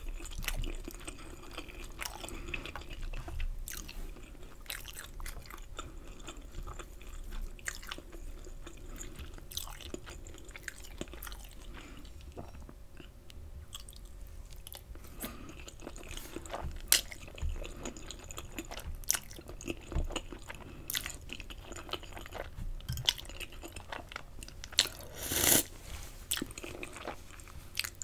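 Close-miked chewing of fettuccine in Alfredo sauce, with many scattered wet mouth clicks and smacks and a louder cluster of them about 25 seconds in.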